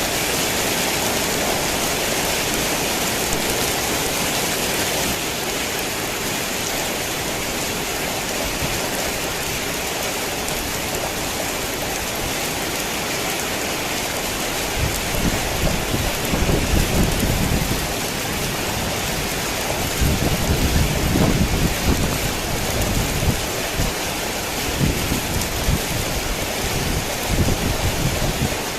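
Heavy rain falling steadily, with low thunder rumbles coming in about halfway through, in two longer rolls and a few shorter ones.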